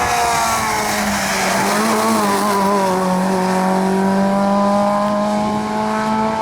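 Competition car engine running hard on a hillclimb. Its pitch dips and wavers about two to three seconds in, then climbs slowly again.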